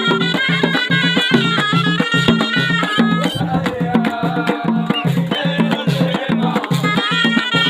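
Ghaita, the Moroccan double-reed shawm, playing a stepping folk melody over a steady rhythmic beat; the melody thins out about three seconds in and comes back strongly near the end.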